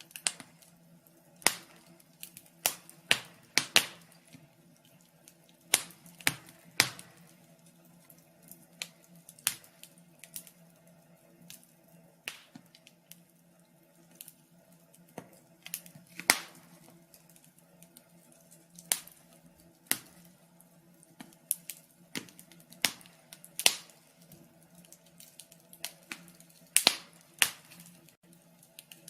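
Fire crackling: irregular sharp pops and snaps, some much louder than others, over a faint steady low hum.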